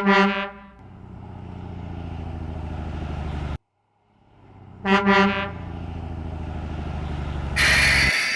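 Garbage truck sound effects: a horn honks at the start and again about five seconds in, with a low diesel-like engine rumble running between the honks that cuts off suddenly partway through and then builds back up. A burst of hiss comes near the end.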